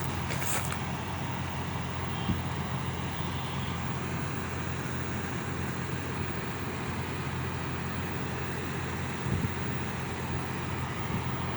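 Midea ductless inverter air conditioner running: a steady low hum under an even rush of fan air, with a couple of faint knocks.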